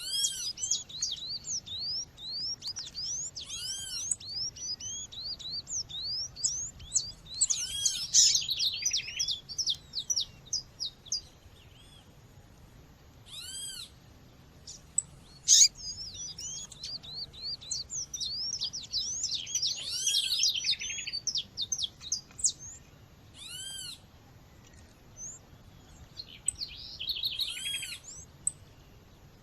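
Female Sporophila seedeater (coleiro or papa-capim) calling over a chorus of many small birds, played as a lure to stir up males. Quick rising chirps crowd together, thin out in the middle and pick up again, with repeated arching call notes. There is a single sharp click about halfway.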